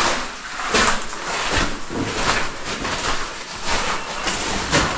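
Footsteps scuffing and crunching on a cave floor, about one step every 0.7 seconds, as someone walks along a passage.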